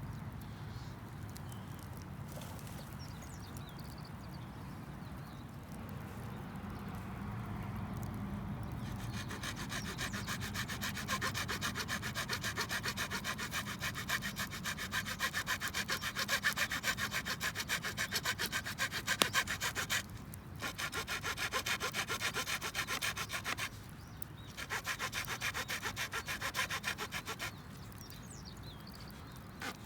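Hand saw cutting wood with quick, steady back-and-forth strokes, starting about nine seconds in and pausing briefly three times.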